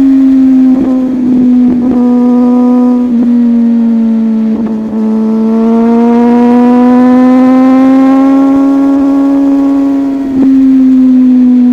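Superbike engine running at steady high revs while riding. Its pitch eases down, then slowly rises and falls with the throttle, with brief dips about a second in, around four to five seconds in, and about ten seconds in.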